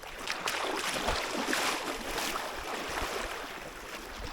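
Cold lake water splashing and sloshing around a person wading in, with a few irregular splashes and a low thump about a second in.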